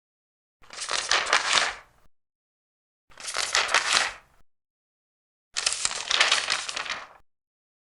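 Large paper pages being turned one after another, three page turns, each a crackly rustle lasting a second or so with silence between.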